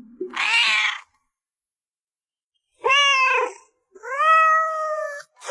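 A domestic cat meowing twice, a short arching meow followed by a longer, drawn-out one, after a brief harsher cry near the start.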